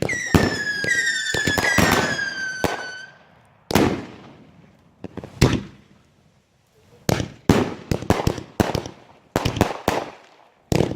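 Fireworks going off: several whistling fireworks shriek together for about three seconds, each whistle sliding down a little in pitch, amid sharp bangs. Then single bangs with echoing tails follow, and a quick run of bangs from about seven seconds on.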